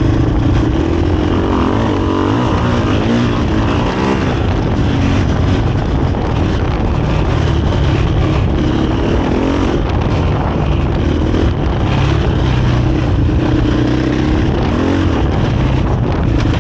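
KTM 500 EXC-F's single-cylinder four-stroke engine running through a Graves exhaust under riding load, its revs rising and falling.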